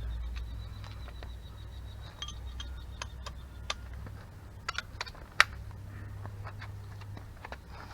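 Irregular light clicks and taps from tools or small parts being handled, with one sharper tap about five seconds in, over a low steady hum that fades partway through.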